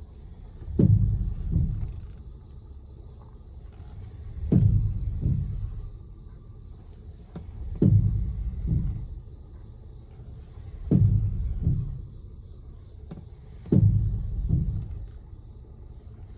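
A 2016 Honda Pilot making a repeated clunking noise: sharp low double clunks, about three-quarters of a second apart, coming back roughly every three seconds over a steady low rumble. The cause is unknown.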